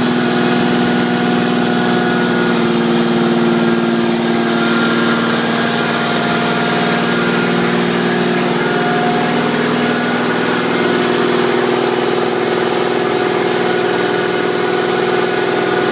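Engine idling steadily just after a cold start, having sat unused for six days.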